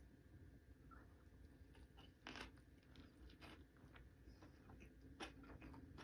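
A person chewing and biting food close to the microphone: faint, irregular wet and crunchy mouth sounds, with a louder crunch about two seconds in and another about five seconds in.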